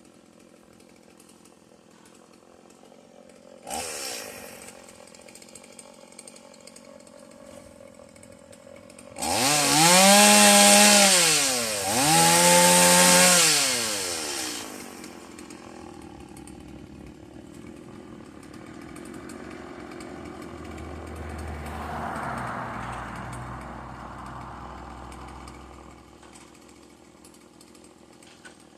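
Stihl two-stroke chainsaw idling, with a short blip of the throttle, then two long revs up to full speed one after the other, each falling back to idle. Near the end, a softer low rumble.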